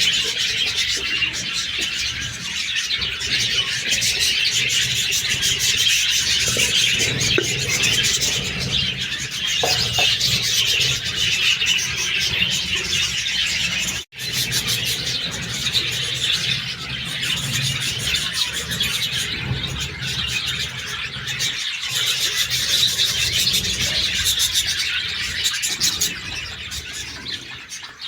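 A flock of budgerigars chattering and chirping at once in a continuous dense twitter, broken by a split-second gap about halfway through.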